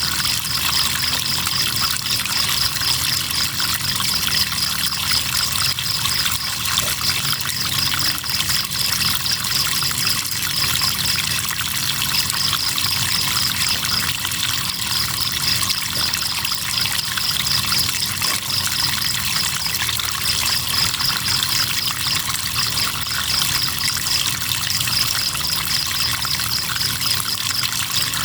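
Crickets chirping in long runs of rapid pulses with brief pauses, over the steady trickling rush of river water.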